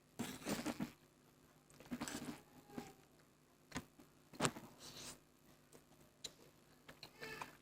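Someone eating Maggi instant noodles close to the microphone: irregular bursts of slurping and chewing, with two sharp clicks near the middle.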